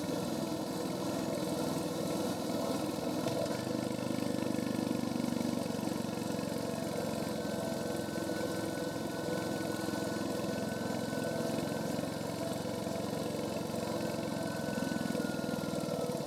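Royal Enfield Hunter 350's single-cylinder engine running steadily through its stock exhaust while the motorcycle is ridden at an even pace, with an even hiss over it.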